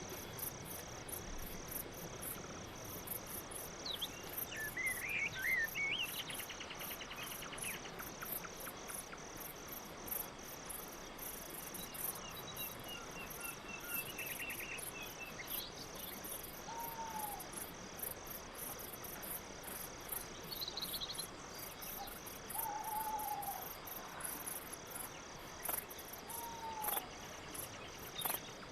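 Crickets chirping in a steady, fast-pulsing night chorus, with a few short bird calls over it.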